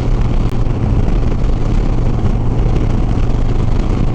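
Harley-Davidson Sport Glide's V-twin engine running steadily at highway cruising speed, with a steady rush of wind and road noise.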